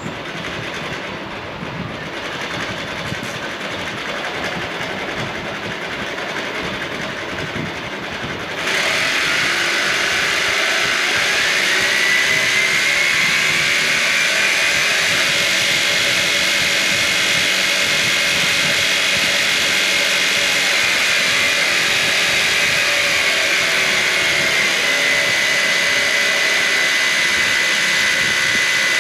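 A brushless motor running through a 3D-printed reduction gearbox. It starts as a noisy mechanical rattle, then about nine seconds in gets suddenly louder and a high whine rises in pitch and holds steady, dipping slightly near the end.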